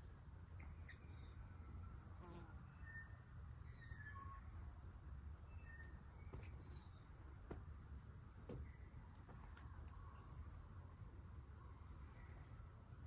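Faint, scattered short bird chirps over a low steady rumble, with a few soft clicks.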